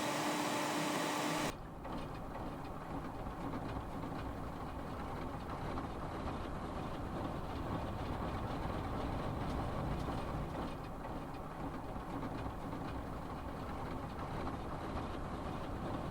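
A steady low rumbling noise with no clear tone, starting at a sudden cut about a second and a half in.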